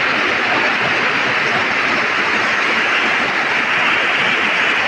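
Heavy rain pouring onto bare muddy ground, puddles and leafy plants: a dense, steady hiss.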